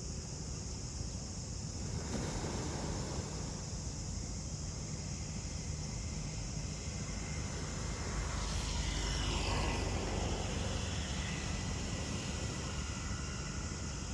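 Steady drone of insects over a low rumble of wind and ocean surf. A distant vehicle passes, its sound rising and falling in pitch from about eight to eleven seconds in.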